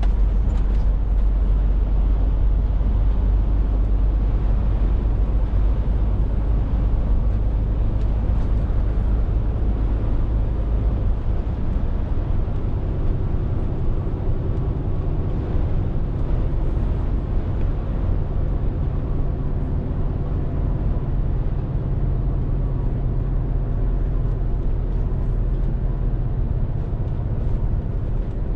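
Scania R450 lorry's six-cylinder diesel engine running steadily under way, with tyre and road noise. The engine note changes about halfway through.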